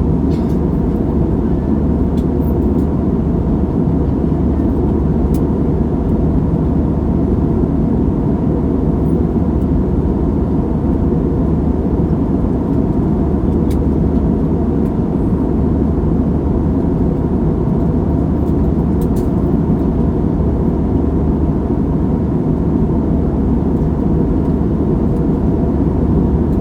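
Steady cabin noise inside a jet airliner in flight: the low, even hum of the engines and the air rushing past the fuselage, heard from a window seat over the wing.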